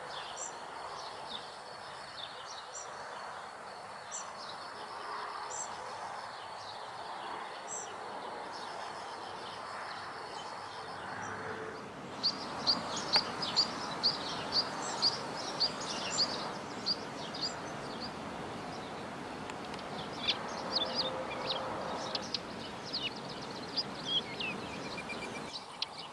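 Small songbirds chirping: short, sharp, high calls, faint at first and much louder and denser from about twelve seconds in, coming one or two a second, over a steady background hiss.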